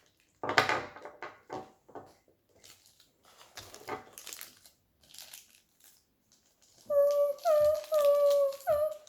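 Plastic and foil blind-bag packaging crinkling and being torn open in irregular rustles. Near the end a voice hums a few held notes.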